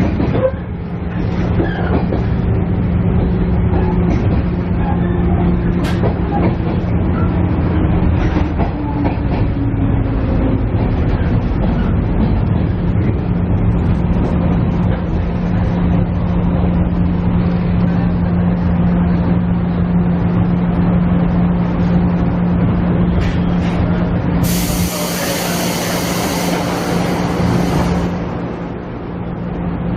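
KiHa E130 diesel railcar heard from inside the passenger cabin: a steady rumble of wheels and running gear over a low engine hum, with a tone that falls slowly over the first ten seconds. About 25 seconds in, a loud hiss of air lasts about three seconds.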